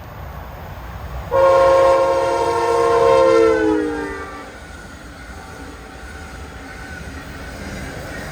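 Train horn sounding one long chord-like blast that starts abruptly about a second in; the blast's pitch slides down as it ends. The low rumble of the train runs underneath.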